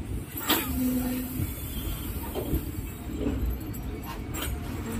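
Passenger train running with a steady low rumble, a sharp metallic sound about half a second in and another a little after four seconds.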